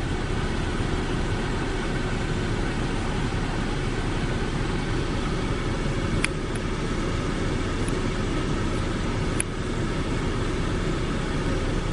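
Steady low rumble of a running vehicle, with two faint ticks, one about six seconds in and one about nine seconds in.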